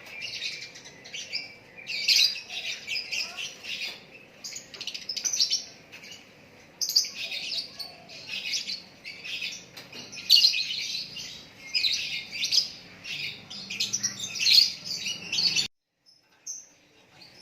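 Songbird singing: rapid, high chattering phrases of chirps and twitters in bursts about a second long, with short gaps between, cutting off abruptly near the end.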